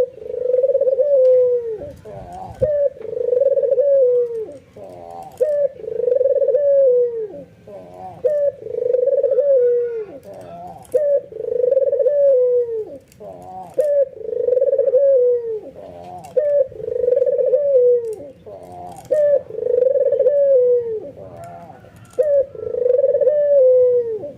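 White (albino) ringneck dove cooing over and over, one loud falling coo about every two seconds, with fainter coos in between.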